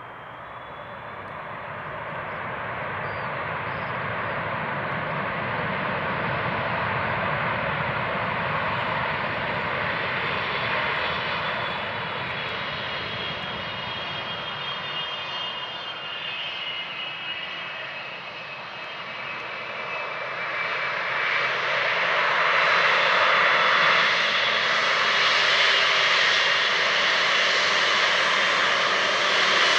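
Boeing 777 GE90 turbofan engines at takeoff power: a heavy jet noise with a high whine on top that swells over the first few seconds, eases a little past the middle, then grows louder again and holds.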